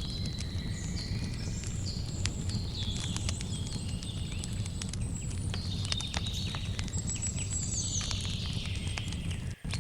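Campfire crackling with frequent sharp pops over a steady low rumble, while crickets and birds keep up high chirping calls and a short high trill sounds about seven seconds in. The sound drops out for an instant near the end.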